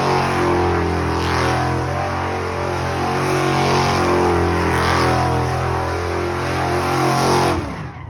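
Truck engine running at a steady speed, a constant drone that cuts off sharply near the end.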